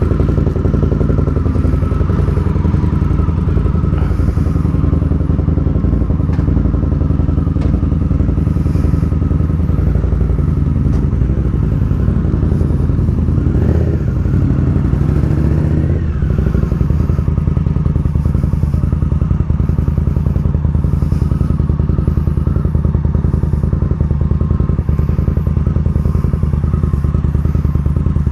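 Indian Scout Bobber's liquid-cooled V-twin engine running steadily, with a brief rise and fall in revs about halfway through.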